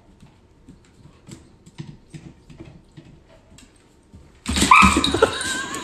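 Faint scattered taps, then about four and a half seconds in a loud animal cry starts suddenly, sliding in pitch, and gives way to a wavering high tone.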